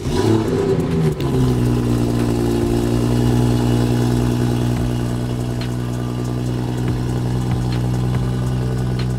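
BMW 440i's B58 turbocharged straight-six starting up: the revs flare and drop back over about the first second, then settle into a steady idle.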